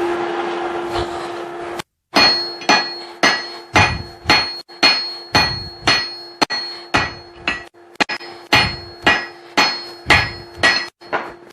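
Hand hammer blows on steel on an anvil, about two a second, each strike leaving a short metallic ring, over a steady hum. The first two seconds hold only a steady rushing noise, which cuts off briefly before the hammering starts.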